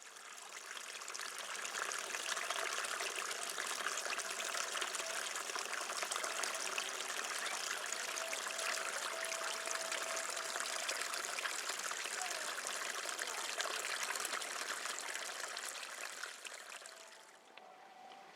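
Running water trickling and splashing steadily, like a small stream or waterfall. It swells over the first couple of seconds and fades away near the end.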